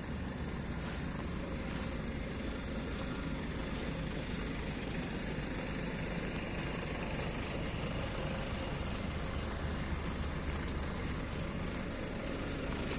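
Steady rumble of distant road traffic, with faint footsteps at walking pace, about two a second, on icy ground.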